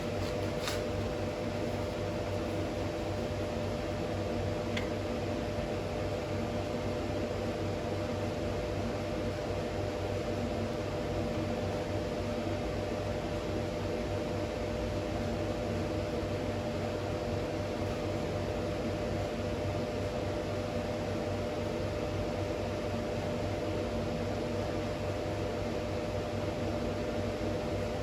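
Steady hum of a running machine, with a few constant tones over an even noise and no change throughout.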